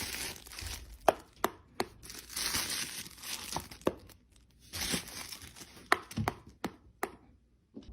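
Paper crinkling and tearing in three bursts, with a string of sharp clicks in between.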